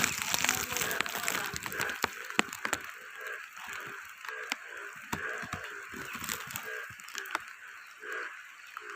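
Rain falling, with many sharp drop clicks, over a low animal call repeating about twice a second.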